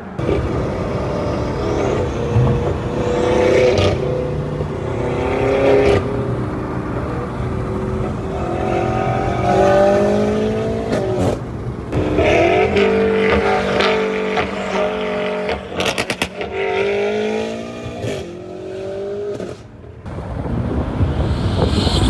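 2023 BMW M5 Competition's twin-turbo V8, running catless downpipes and no catalysts, pulling hard through the gears. Its pitch climbs several times and drops at each shift, with a quick run of pops near the middle.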